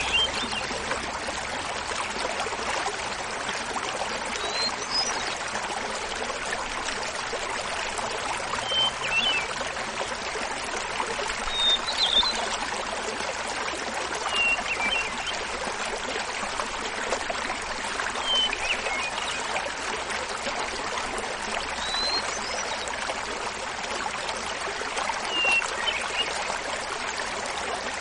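Small mountain waterfall splashing steadily, with a hermit thrush singing over it: a short flute-like phrase about every three seconds, eight or nine phrases in all, each at a different pitch.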